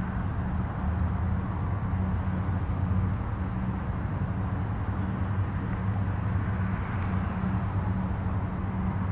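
Steady rumble of distant highway traffic: a low hum with a wash of tyre noise that swells slightly near the end. A faint high-pitched pulse repeats about three times a second above it.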